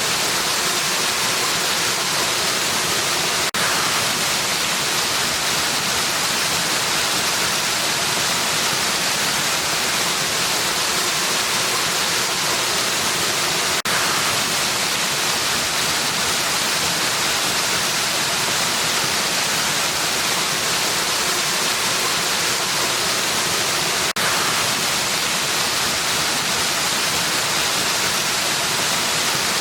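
Waterfall rushing steadily, an even hiss weighted toward the high end with no change in level. Three faint clicks about ten seconds apart break it briefly.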